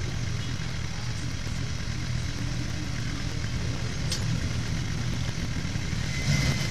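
Suzuki GSX-R750's inline-four engine idling steadily at a standstill, with one short click about four seconds in.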